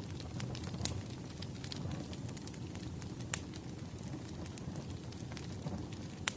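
Wood fire crackling: a steady low rumble of burning logs with scattered sharp pops, one louder pop about three seconds in.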